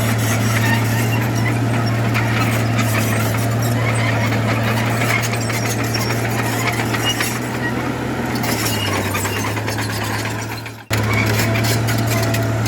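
Heavy earthmoving machinery's diesel engine running with a steady low drone. The note drops a little about eight seconds in, and the sound cuts out for an instant near the end before the drone resumes.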